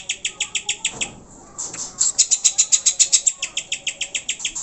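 Greater green leafbird (cucak hijau) calling in a fast, even chatter of sharp high notes, about eight a second, that breaks off for a moment about a second in and then carries on.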